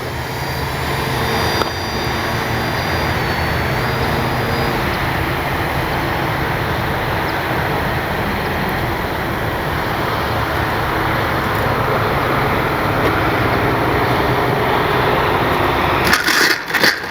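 A steady, loud rush of wind or outdoor noise on the microphone. Over it, the faint thin whine of the RC plane's electric motor on its landing approach changes pitch about three seconds in and fades out soon after. Choppy, gusting bursts come near the end.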